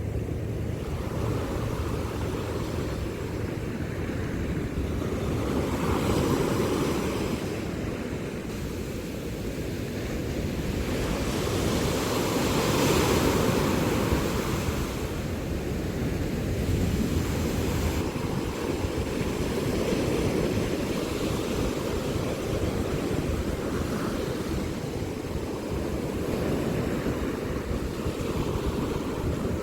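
Sea waves surging and breaking on the shore, the wash swelling and fading about every six or seven seconds, with wind rumbling on the microphone.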